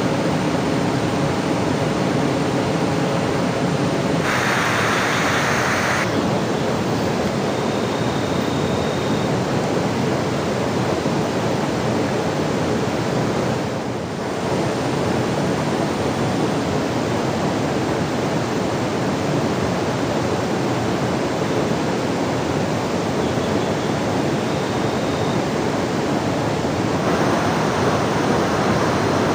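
Steady rushing of water, as of heavy rain or a river in spate. It briefly turns brighter and hissier about four seconds in and again near the end.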